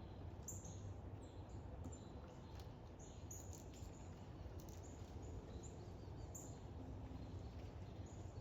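Small birds chirping faintly, with short high chirps scattered throughout, over a steady low rumble.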